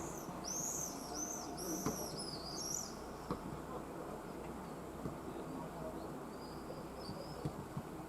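Common swifts screaming in flight: a rapid burst of high, arching screeches in the first three seconds, then a few fainter ones near the end, over a steady low hum of city traffic.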